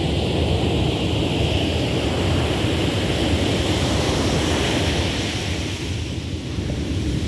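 Ocean surf washing on a beach, a steady rushing hiss that eases slightly near the end, with wind rumbling on the microphone.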